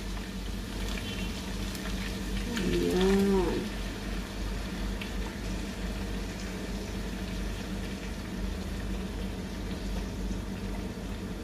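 Ground pork and sliced hotdog sautéing in a wok, a steady low sizzle with faint crackles over a low hum, as tomato sauce is poured onto the meat. About three seconds in there is a brief low moan-like sound that rises and falls.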